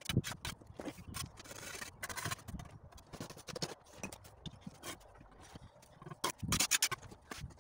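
Bricklaying: irregular knocks and clicks of a trowel and fire bricks being tapped into place, with mortar scraped along the brick, including a longer scrape about two seconds in and a flurry of knocks near the end.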